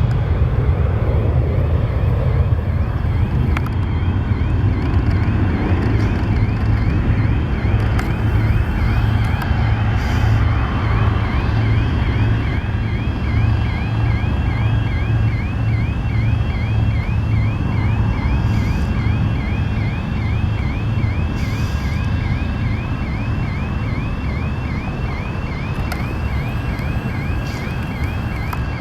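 Steady low rumble of the Cessna Citation XL's twin jet engines as it climbs away after takeoff, easing slightly toward the end, mixed with wind on the microphone. A high, thin chirp repeats a couple of times a second from about ten seconds in.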